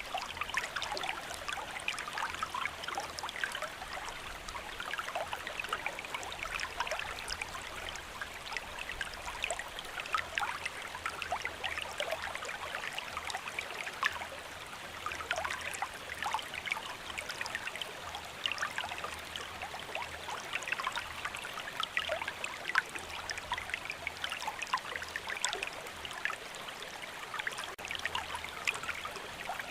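Steady rain, with many separate drops ticking and pattering over a continuous watery hiss.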